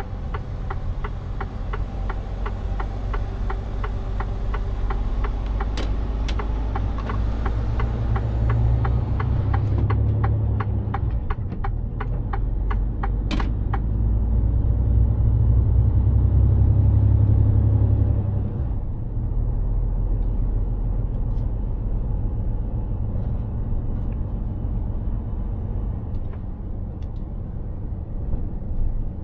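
Mercedes-Benz Actros truck's diesel engine rumbling, heard from inside the cab while driving. It grows louder from about a third of the way in and eases off sharply about two-thirds through. A turn-signal indicator ticks evenly through the first half, then stops.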